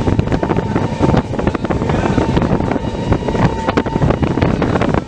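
Moving passenger express train: steady rumble with rapid clatter of the wheels on the track, and wind blowing on the microphone.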